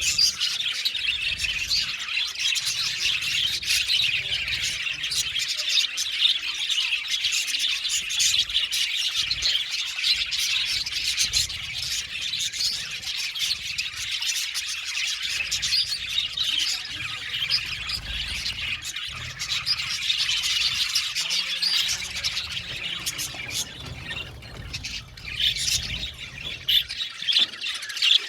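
A flock of budgerigars chattering: many birds chirping, warbling and squawking over one another without a break.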